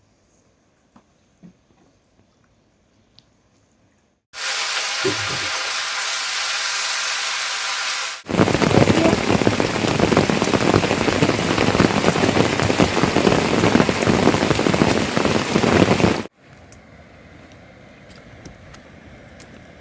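Heavy rain falling in sharply cut segments. The first few seconds are nearly quiet with a few small clicks. About four seconds in, a steady hiss of rain starts; from about eight seconds a louder, rougher downpour takes over. Near sixteen seconds it drops abruptly to a lighter, quieter rain.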